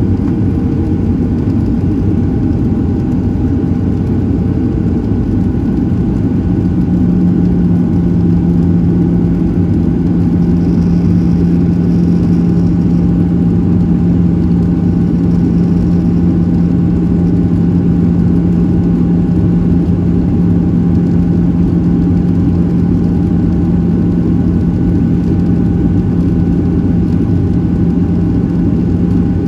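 Steady engine and airflow noise heard inside the cabin of a Boeing 737-700 with CFM56-7B turbofans. A strong low hum comes in about six seconds in and holds steady.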